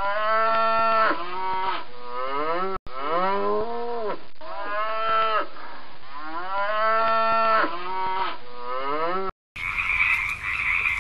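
Cow mooing over and over, a string of short calls that each rise and fall in pitch. About nine and a half seconds in it cuts off abruptly, and a dense chorus of croaking frogs follows.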